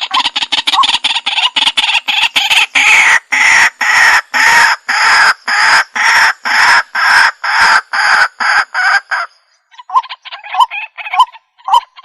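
Waterhen (jal murgi) calling: a loud, fast run of harsh croaking notes, about three to four a second, that stops about nine seconds in. After a short pause, a quieter series of shorter, choppier notes begins.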